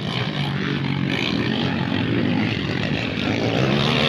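Motocross dirt bike engines running, their pitch wavering up and down with the throttle.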